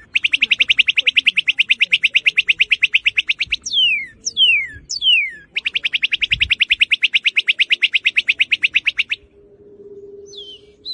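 Northern cardinal singing: a rapid run of short notes, about a dozen a second for over three seconds, then three downslurred whistles, then another rapid run of the same length. Short slurred notes follow near the end.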